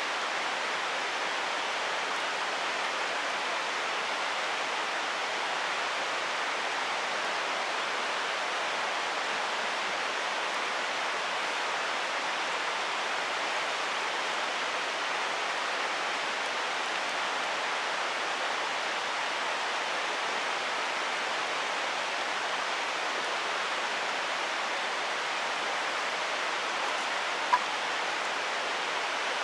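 Steady rushing of a mountain stream's water over rocks, even and unchanging. One brief sharp tick sounds near the end.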